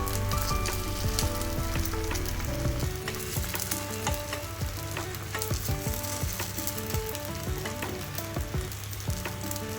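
Dosa batter frying in oil in the wells of a gunta ponganalu (paniyaram) pan: a steady sizzle full of quick crackles and pops.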